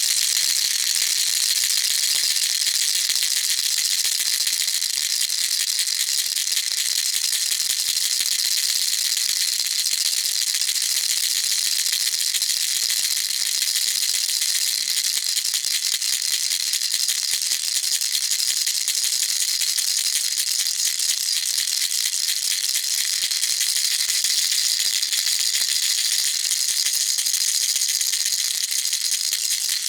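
Baby rattle shaken steadily without pause: a dense, even stream of fast, high-pitched clicks.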